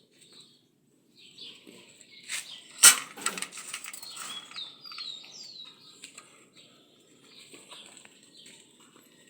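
Birds chirping and calling, with a quick series of short falling whistled notes a little past the middle. A single sharp knock about three seconds in is the loudest sound.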